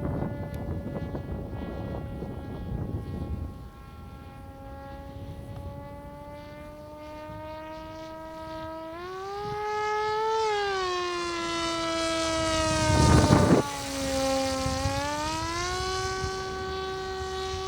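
Electric motor and propeller of a TBS Capi FPV flying wing whining overhead, its pitch rising and falling as the throttle changes. Wind rushes on the microphone, loudest in a gust about 13 seconds in.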